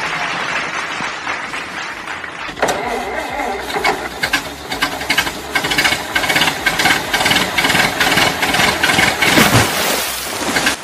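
An engine starts suddenly a little over two and a half seconds in and runs with a fast, uneven rattle, after a steady hiss at the start. The engine sound stops shortly before the end.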